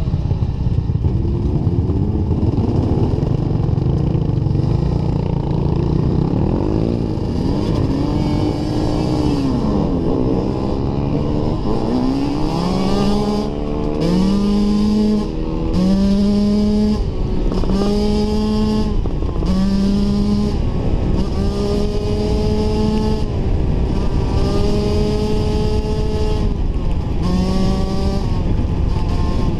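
Dirt bike engine running hard on a trail. At first its pitch drifts slowly up and down. From about twelve seconds in, it revs up and cuts back again roughly every two seconds.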